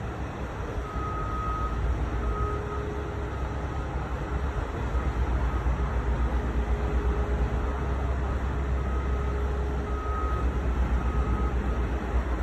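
Heavy diesel truck engine running steadily, a low rumble with rapid even pulsing that gets a little louder about four seconds in.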